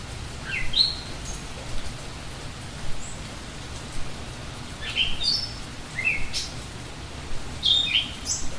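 A songbird singing short phrases of quick, rising, stepped whistled notes, about four phrases spaced a few seconds apart, over a steady background hiss.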